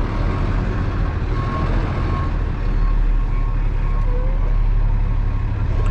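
Truck engine running at a low, steady pitch while reversing, a little louder about halfway through, with a reversing alarm giving short, evenly spaced beeps about every 0.7 seconds.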